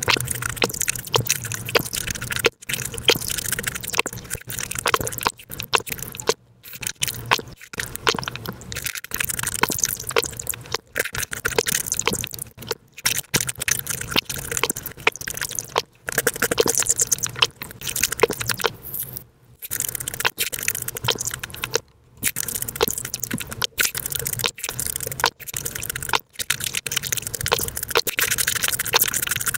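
Sped-up eating sounds: rapid wet chewing, biting and smacking of juicy fresh fruit such as watermelon. They come in dense runs of clicks broken by brief pauses.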